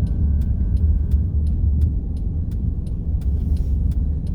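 Car driving on a snowy highway, heard from inside: a steady low road and engine rumble, with a quick regular ticking about three times a second.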